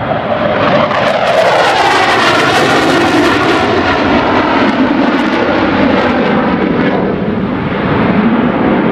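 McDonnell Douglas QF-4E Phantom II jet, its twin J79 turbojets loud on a high-speed low pass. The roar is brightest in the first few seconds, with its pitch sliding down as the jet goes by, then stays loud to the end.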